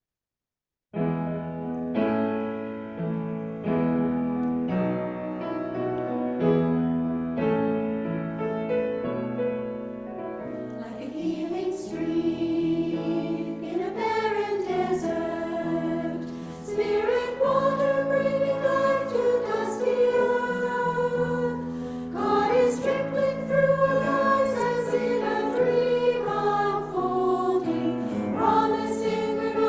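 A hymn starting up: a keyboard plays a sustained introduction of chords, then a group of voices joins in singing the hymn with keyboard accompaniment from about eleven seconds in.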